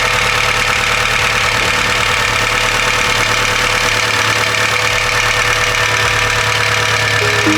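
Volkswagen Golf 3 engine idling steadily, with a knock that the owners take for noisy hydraulic valve lifters rather than a piston knock.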